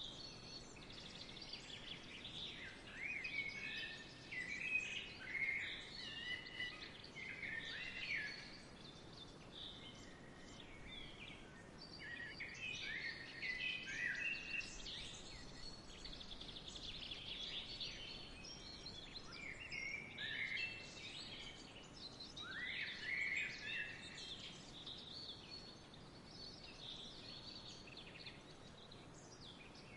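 Songbirds singing and chirping in overlapping short phrases and trills, over a faint steady background hiss.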